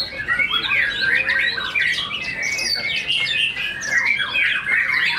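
White-rumped shama (murai batu) singing in full contest song: a rapid, unbroken stream of varied whistles, trills and quick sweeping notes.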